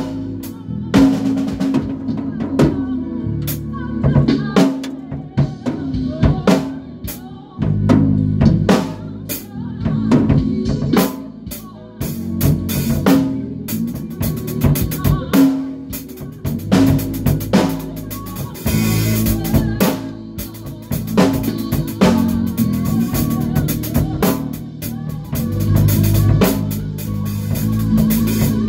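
A band rehearsing: a drum kit playing a steady beat of kick, snare and cymbals, with a bass guitar holding low notes underneath.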